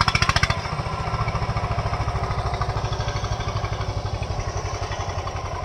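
Eicher tractor's diesel engine running with an even, rapid firing rhythm. It is louder for the first half-second, then carries on steadily at a lower level.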